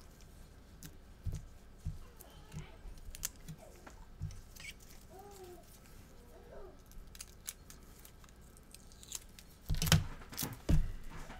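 Scattered small clicks and handling noises of work at a repair bench, with two louder knocks near the end.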